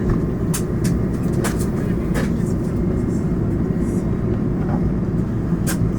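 Steady low rumble of engine and airflow noise inside the cabin of an Airbus A220 with Pratt & Whitney PW1500G engines, descending for landing. A few sharp clicks or rattles sound over it.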